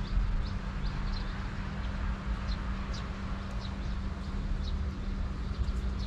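Short, high bird chirps repeating irregularly, about once or twice a second, over a steady low hum and a low rumble.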